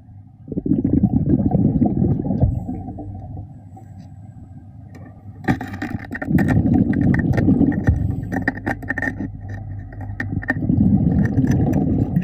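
Underwater: a diver's exhaled breath bubbling out in three long, low, rumbling surges, with sharp clicks and taps in between over a steady low hum.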